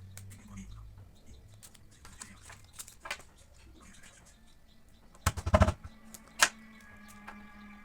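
Scattered clicks and taps of small craft materials being handled, with a quick loud rattle of clicks about five seconds in.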